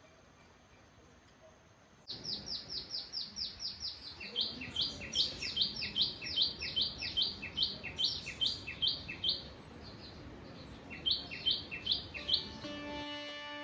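A bird calling in a rapid run of short, high, falling chirps, about six a second, starting suddenly about two seconds in. It pauses briefly and then starts a second run. A soft steady hiss lies underneath, and plucked-string music begins near the end.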